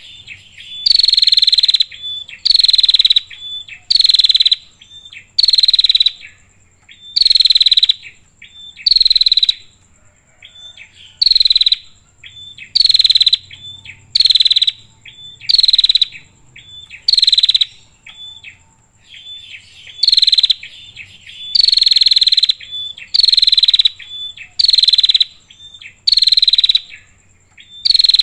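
Female prinia (prenjak) calling: loud buzzing calls repeated about every second and a half, with short softer notes between them. A faint steady high insect drone runs underneath.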